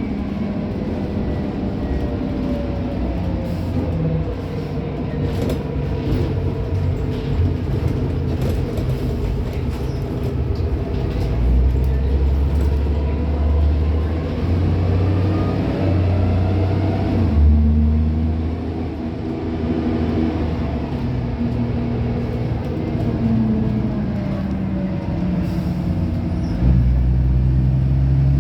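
Van Hool AG280 articulated bus's diesel engine heard on board while driving, its note rising and falling several times as the bus speeds up and slows.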